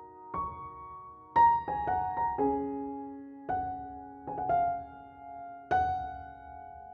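Gentle background piano music: single notes and soft chords struck at an unhurried pace, each left ringing as it fades.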